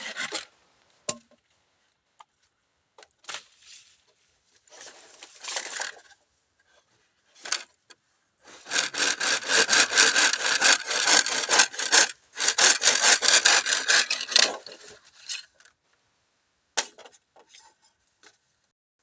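Bamboo being sawn by hand in quick back-and-forth strokes: a few short bursts, then a long steady run of sawing, ending in scattered small knocks and scrapes.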